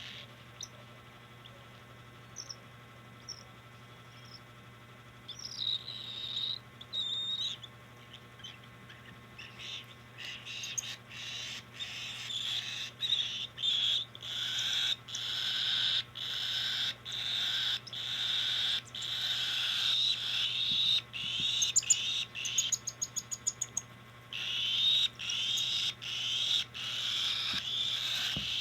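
Cockatiel chicks giving food-begging calls while being hand-fed, sparse at first and then repeated about once a second. A quick run of clicks comes about three quarters of the way in.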